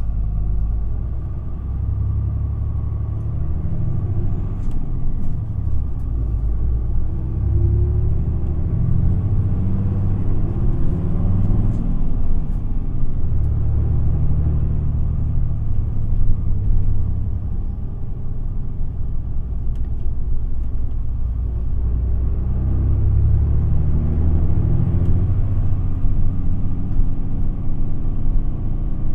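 Isuzu Erga city bus (QPG-LV234L3) driving, heard from inside the cabin: a diesel engine drone with road and tyre rumble. The engine note climbs twice as the bus accelerates, about a third of the way in and again about three-quarters of the way in.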